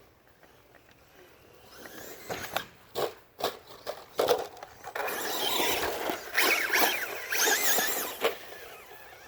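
Traxxas Rustler VXL RC truck driving hard: a few sharp knocks as it lands and bounces, then a high brushless-motor whine that wavers up and down with the throttle over tyre and dirt noise.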